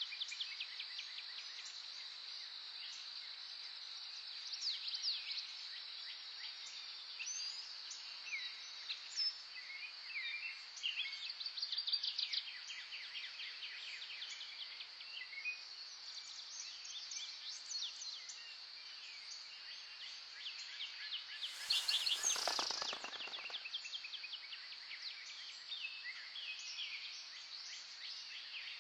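Many small birds chirping and trilling over a steady high-pitched insect drone. About three quarters of the way through comes one louder rasping burst lasting about a second and a half.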